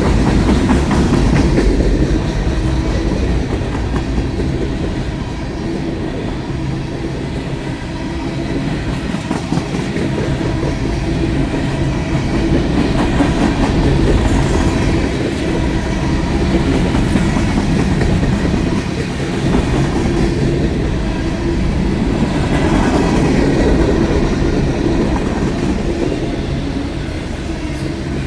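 Freight train cars rolling past, wheels clacking steadily over the rail joints over a continuous heavy rumble that swells and eases slightly.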